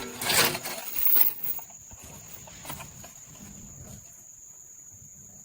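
Two brief noisy rasps in the first second and a half, then crickets trilling steadily as a thin high tone.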